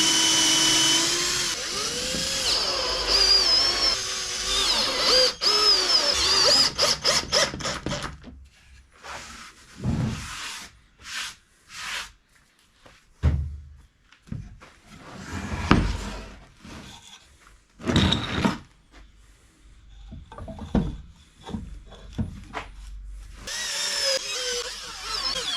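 Homemade power tool driven by an old washing machine motor. It runs steadily, then its pitch shifts and drops about a second in. After a run of rapid clicks it works in short, separate bursts, and near the end it runs steadily again.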